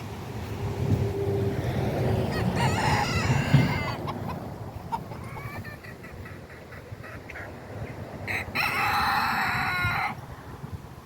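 A Silkie rooster crowing twice, each crow about a second and a half long, the second one near the end.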